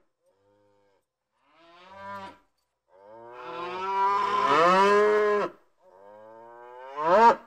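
Holstein calves mooing: a short call about two seconds in, a long loud call from about three to five and a half seconds in, and a call that rises in pitch and cuts off near the end.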